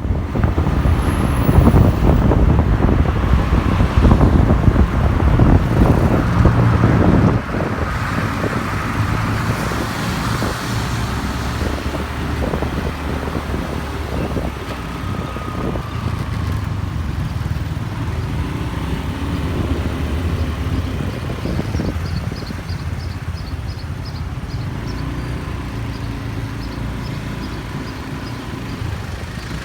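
Riding on a motorbike through traffic: wind buffeting the microphone, heaviest for the first seven seconds or so, over a steady motorbike engine and road noise.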